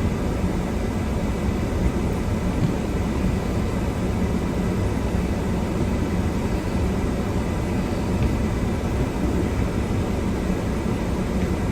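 Steady low rumble inside a car's cabin as it creeps down a steep, snow-covered hill at under 2 mph: engine, tyres and outside noise blending into an even roar.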